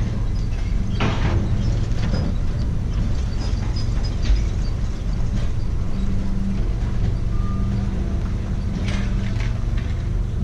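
Motor vehicle engine idling steadily, with a few short clattering knocks about a second in and again near the end.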